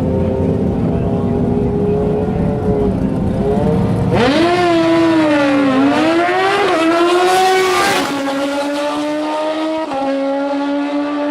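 Drag-racing motorcycle engine running steadily, then revved hard about four seconds in with the pitch swinging up and down for a few seconds, before dropping back to a steadier, lower note.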